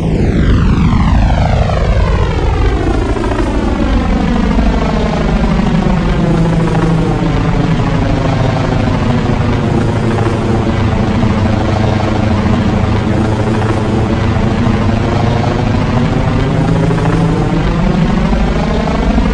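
Helicopter rotor and engine running steadily and loudly, with a slow swishing sweep as the sound passes, falling at first and rising again near the end.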